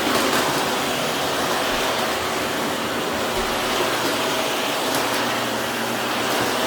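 Vacuum cleaner running steadily, a loud even whoosh of motor and airflow with a faint steady whine.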